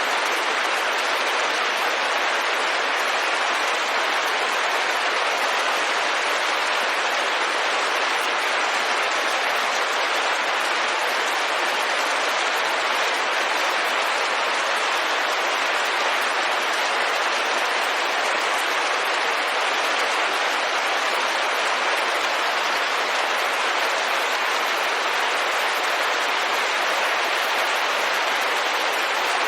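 Steady rain falling on a window: an even, unbroken hiss of many drops at a constant level.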